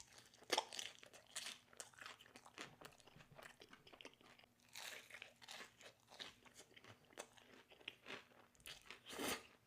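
A person eating close to the microphone: chewing with a run of irregular short mouth clicks and crunchy bites, the loudest a few near the start and a cluster just before the end.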